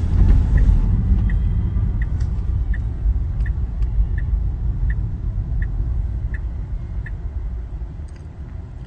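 Low road rumble inside a Tesla's cabin as it drives itself, with the turn-signal indicator ticking about 1.4 times a second. The ticking stops about seven seconds in and the rumble fades as the car slows near the end.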